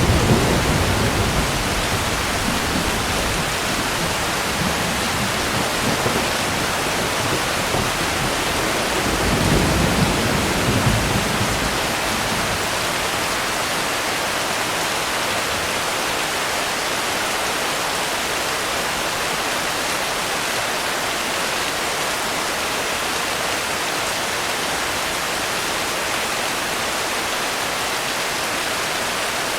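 Steady heavy rain hiss. Low rumbles of distant thunder come at the start and again about ten seconds in.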